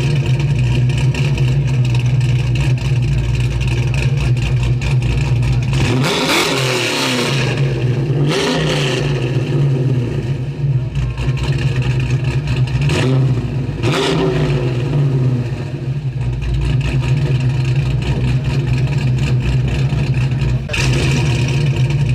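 A 1969 Buick GS 400's 464-cubic-inch Buick V8, with aluminium Stage 1 heads, idling loudly. It is blipped up in revs and falls back four times: twice about six to nine seconds in and twice around thirteen to fifteen seconds in.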